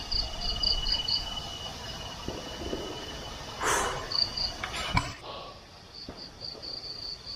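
Night insects chirping in quick pulsed trills that come in runs, over a steady high whine that fades out about five seconds in. A brief rustle comes just before four seconds and a sharp click at five seconds.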